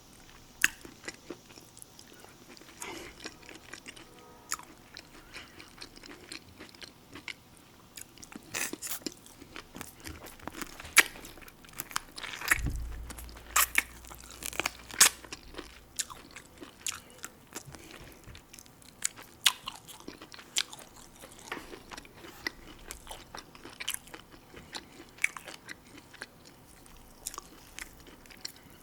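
A person eating close to the microphone: repeated crunchy bites and chewing with wet mouth clicks. There is a low thud about twelve seconds in.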